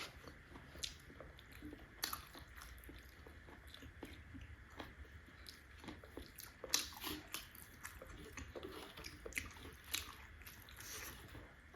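Close-up mouth sounds of someone eating steamed buff momo dumplings: soft wet chewing and smacking with scattered small clicks.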